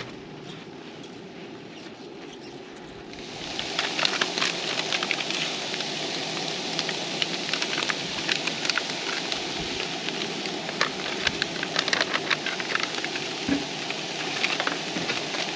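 Wood campfire crackling, with many sharp irregular pops over a steady hiss. It comes in suddenly about three seconds in, over a quieter steady noise.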